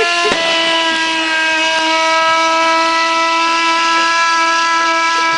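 1965 Ford Falcon engine screaming at a steady high pitch with the throttle held wide open, run without coolant to destroy it.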